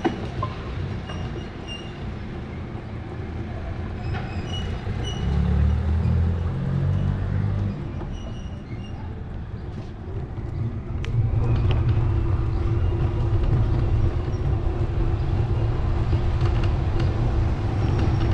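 A steady low vehicle rumble that grows louder about eleven seconds in, with a low hum running through it, and short faint high chirps in the first half.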